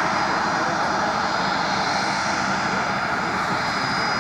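UH-1 Huey helicopter running, a steady loud engine and rotor noise with a thin high turbine whine held throughout.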